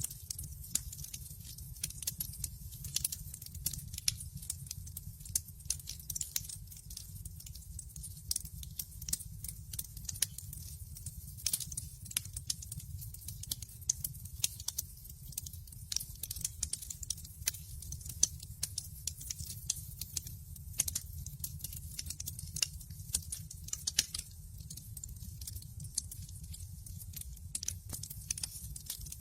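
Wood fire in a fireplace crackling: a dense, irregular stream of small sharp pops and snaps over a steady low rumble.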